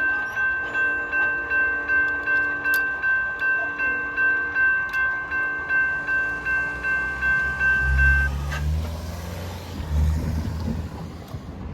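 Railroad grade-crossing warning bell ringing in rapid, even strokes, about three a second, then cutting off abruptly about eight seconds in. A low engine rumble of a passing road vehicle follows.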